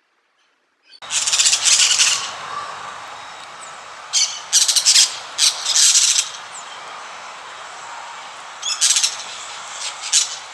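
Parrot squawking in loud, harsh bursts: a pair about a second in, a quick run of several between four and six seconds, and a couple more near the end, over steady background noise.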